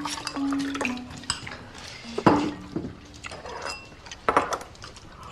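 Tableware clinking as people eat: chopsticks and spoons tapping on bowls and dishes, a scatter of light knocks a second or so apart.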